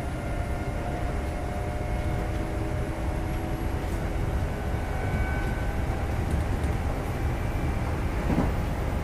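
Kintetsu 2430 series electric train running steadily between stations, heard from inside the car. It is a continuous rumble of wheels on rail with a faint steady whine from the running gear.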